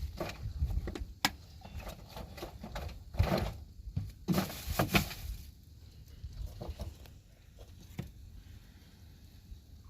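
Irregular clicks, knocks and short rustling noises, busiest between about three and five seconds in, then quieter.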